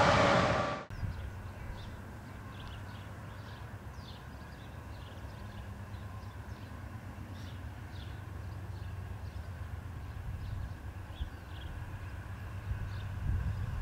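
A loud passing train cuts off abruptly in the first second. After that there is a steady low rumble with scattered faint, short bird chirps over it, growing a little louder near the end.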